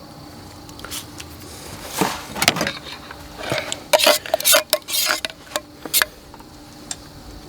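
Metal utensils clinking and scraping against camp cookware in a quick run of knocks and scrapes, some with a short metallic ring.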